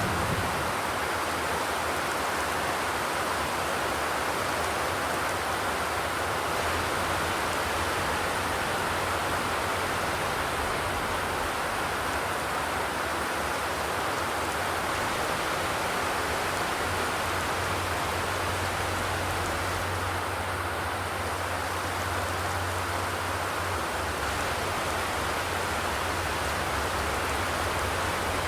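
Steady rain falling on a zinc (corrugated metal) roof: an even, unbroken hiss with no thunder.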